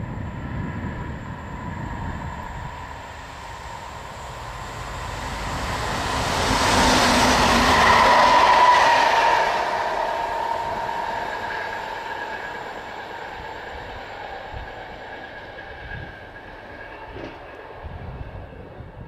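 Fast electric train running through the station without stopping. Its rushing noise and steady whine build as it approaches, are loudest about seven to nine seconds in as it passes, then fade away.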